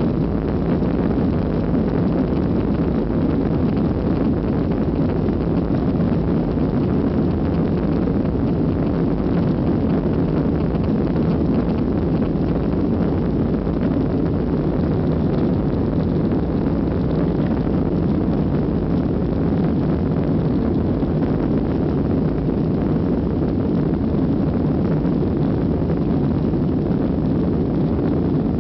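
Steady, loud roar of a Ryanair Boeing 737's jet engines heard inside the cabin during the takeoff, a constant low rumble without pauses.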